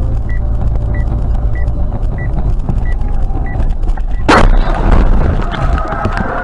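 Dashcam recording of a car crash: steady road and engine rumble with a short beep repeating about every 0.6 s, then one loud impact just over four seconds in, followed by a noisy wash that fades.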